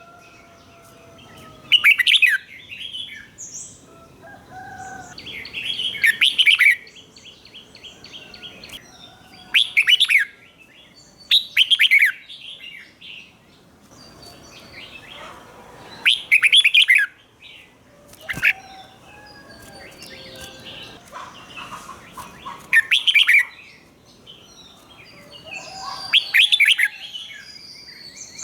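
Red-whiskered bulbul singing: about seven short, loud whistled song phrases a few seconds apart, with fainter chirps in between.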